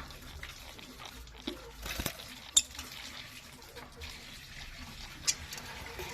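Budgerigar colony in an aviary: scattered small clicks and brief faint chirps, with one sharp click about two and a half seconds in and another near the end.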